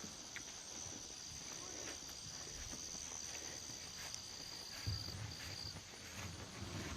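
Faint outdoor insect chorus: a steady high-pitched drone of insects, with a second, slightly lower trill that stops and starts a few times in the middle.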